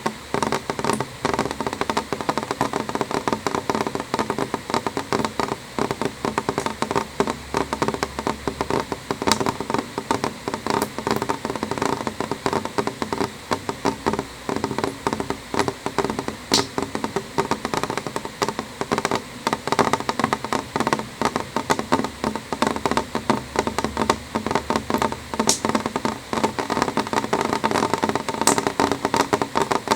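Rain on a window pane, a steady dense patter of drops tapping the glass, with a few sharper ticks scattered through it.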